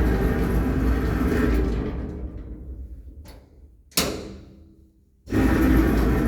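Mogilevliftmash (MLM) passenger lift machinery: loud running noise that dies away, a faint click, then a sharp clunk about four seconds in, and after a short hush the loud running starts up again abruptly.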